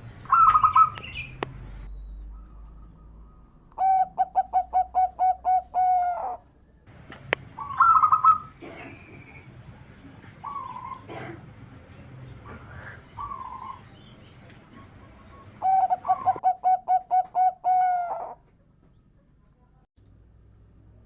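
Zebra doves (perkutut) singing. Two bouts of quick, stuttering cooing notes, about ten in a row, each ending on a drawn-out note, come about four seconds in and again about sixteen seconds in. Shorter, higher calls fall between them.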